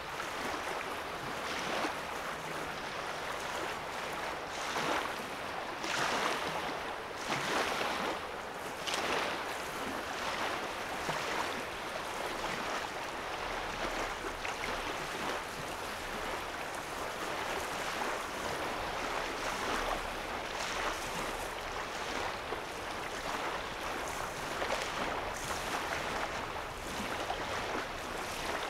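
Small lake waves lapping at a sandy shoreline: a steady wash of water with soft splashes every second or two.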